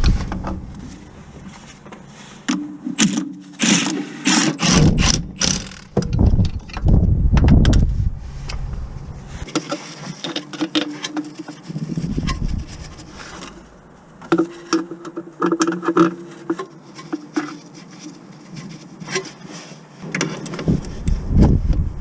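Irregular knocks, scrapes and rubbing of tools and metal car parts being handled during a clutch replacement. The heaviest thumps come in the first third and again about halfway through.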